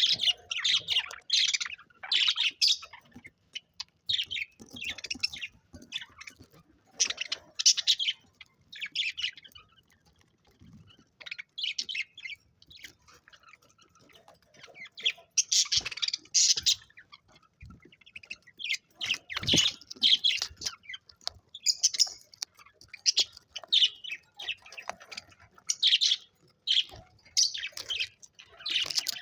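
Budgerigars chirping and chattering in bursts of short, high notes, with a quieter lull partway through.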